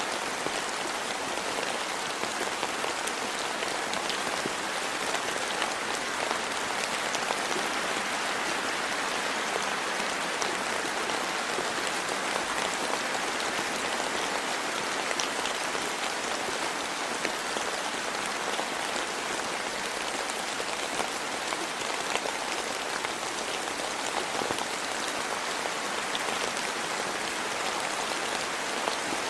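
Steady rain falling, an even hiss with many small individual drop ticks scattered through it, unchanging throughout.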